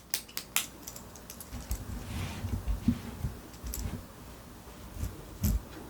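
Desk study sounds: sharp clicks near the start and scattered light knocks as a ballpoint pen and notebook are handled, with a brief paper rustle about two seconds in.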